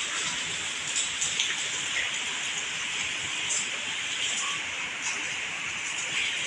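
Heavy rain falling steadily, a constant hiss of rain with scattered drops striking surfaces.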